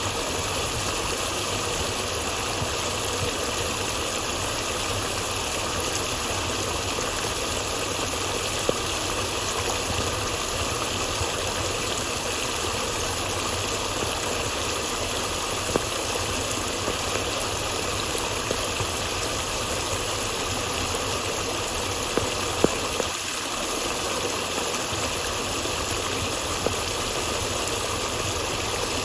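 Flowing water rushing steadily, with a few brief clicks now and then.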